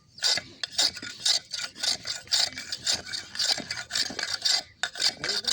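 Hand abrasive work: a tool rubbed back and forth over a workpiece in quick even strokes, about three a second.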